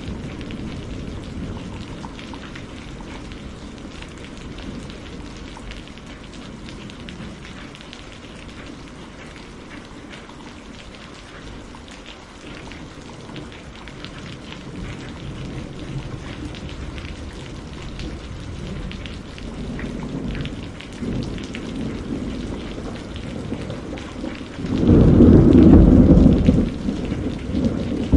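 Steady rain with rolling thunder: low distant rumbles through the first part, building to a loud, deep thunderclap about three-quarters of the way through and another roll near the end.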